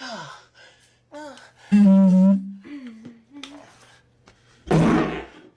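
A person's voice making wordless sounds: a short rising hum, then a loud held wavering tone and a few smaller gliding hums, and a loud breathy burst near the end.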